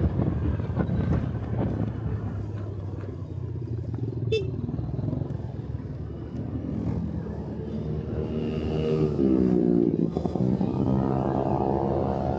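Motorcycle engine running while riding, over a low rumble of wind and road noise. From about halfway the engine note rises with acceleration, dips briefly and climbs again.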